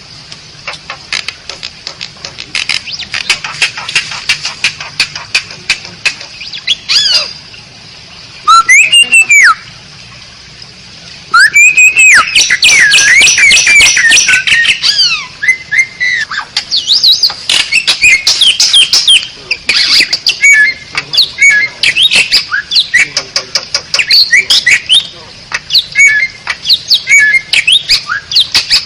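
Asian pied starling (jalak suren) singing: a quick run of dry clicking chatter, then from about eight seconds in loud squawks mixed with varied, gliding whistled phrases and chattering.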